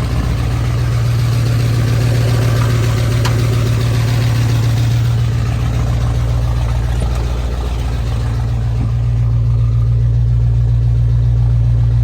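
Ford 351 Windsor small-block V8 with a newly broken-in camshaft, idling steadily. Its sound dips briefly about seven and a half seconds in.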